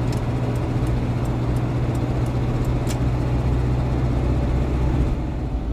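GAZon Next truck's diesel engine and tyre noise heard from inside the cab while driving: a steady low drone, with a few faint, irregular ticks.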